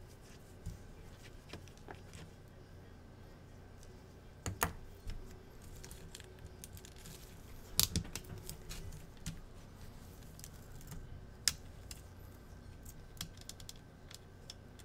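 Scattered light clicks and taps of small hand tools, such as a precision screwdriver and tweezers, on the screws and parts of an iPad as it is taken apart. A few sharper clicks stand out a third of the way in, about halfway, and again a little later, over a faint steady hum.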